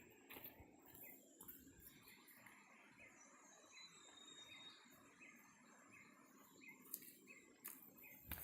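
Faint forest sound: a bird calling with a short note repeated evenly, about two or three times a second, over a thin steady high whine, with a few sharp clicks near the end.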